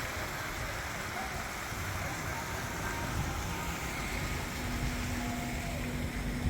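Wind buffeting the microphone over the steady rush of a small waterfall running into a pond. A faint steady hum joins about four and a half seconds in.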